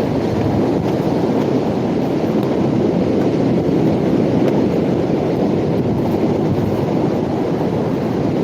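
Wind buffeting a phone microphone: a loud, steady low rumble with no breaks.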